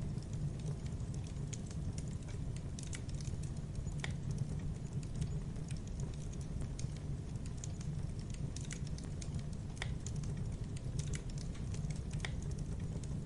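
Wood bonfire crackling: a steady low rumble of burning with many small crackles and a few sharper pops scattered irregularly through it.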